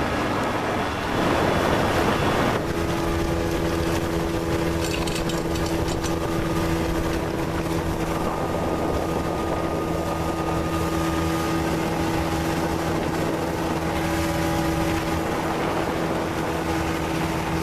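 A small skiff's motor running at a steady cruising speed, its drone holding one pitch under the rush of wind and water. About a second in there is a short, louder surge of rushing noise.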